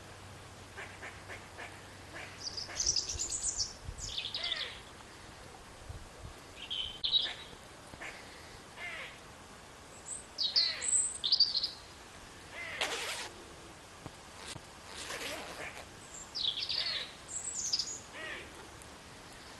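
Small birds chirping and calling in short bursts of high chirps and quick falling notes, repeated every second or two, with two brief rasps in the second half.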